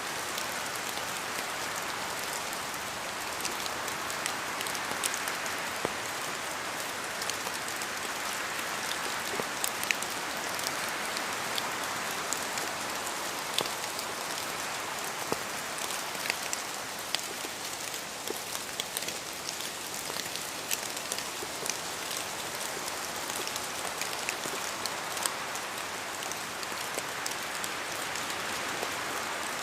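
Steady rain falling, with many sharp individual drops striking close by among the even hiss.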